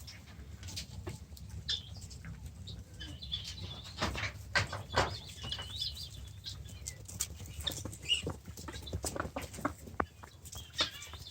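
Farm birds at feed: chirping and clucking calls with a scatter of sharp taps and clicks, over a low steady hum.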